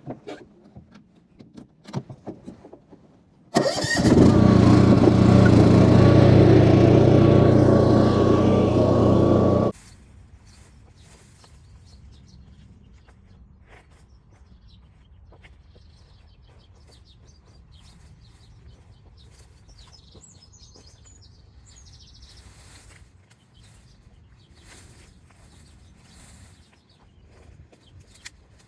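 A few light clicks and knocks, then a motor engine running loudly and steadily for about six seconds before cutting off suddenly. Faint bird chirps follow.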